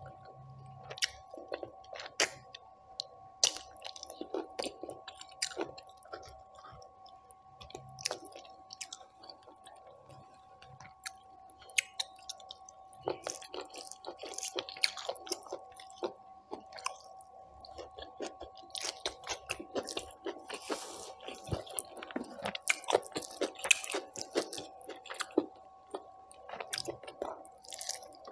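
Close-miked eating by hand: chewing with many short wet clicks and smacks, mixed with fingers squishing and mixing rice with mutton curry on a plate. A faint steady hum runs underneath.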